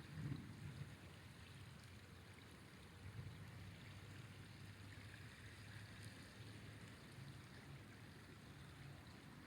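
Faint, steady rush of a flowing river, mostly a low rumble, with a brief louder swell just after the start.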